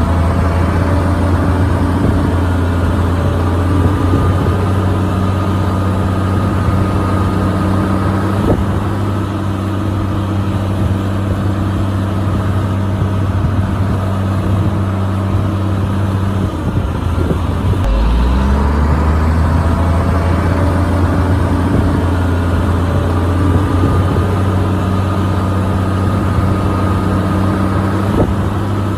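Heavy diesel engine of a Shantui DH17C bulldozer running steadily under load with a faint whine above it. About 18 seconds in, the engine note dips briefly and picks back up.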